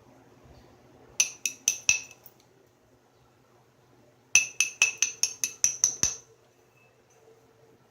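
Hammerstone tapping on the edge of a flint piece, sharp ringing clicks: a run of four about a second in, then after a pause a quicker run of about nine. These are the small strikes used to prepare and isolate striking platforms in flintknapping.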